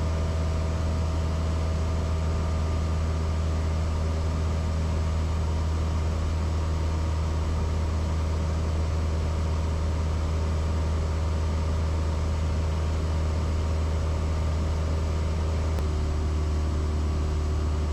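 Cessna 172S's four-cylinder Lycoming IO-360 engine and propeller droning steadily at cruise power in level flight.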